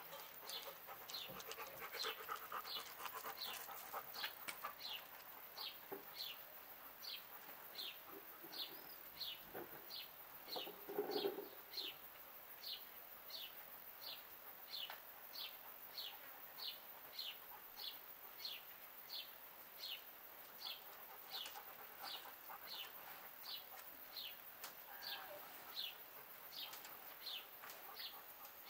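A small bird calling with a short, high chirp repeated steadily, about one and a half times a second. About eleven seconds in, a brief, louder, lower-pitched animal sound cuts in once.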